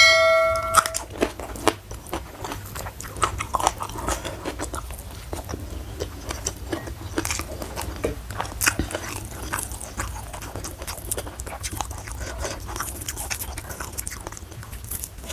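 Close-miked chewing and biting of crunchy food: irregular crisp crunches and wet mouth sounds. A brief ringing tone sounds at the very start.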